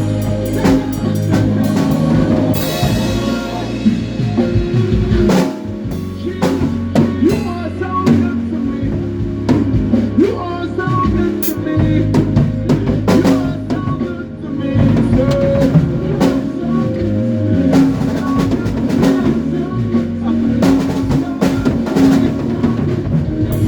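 Live band playing an instrumental passage: drum kit hits on snare and bass drum over steady bass notes and held chords, with a cymbal crash about two and a half seconds in.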